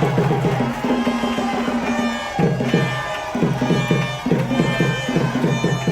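Band music with a fast drum rhythm and sustained low notes, played as a welcome.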